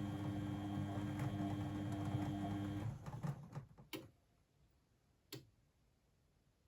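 Blomberg WAF 7442 SL washing machine running with a steady hum that stops about three seconds in. A few clicks follow, then a single click near the end.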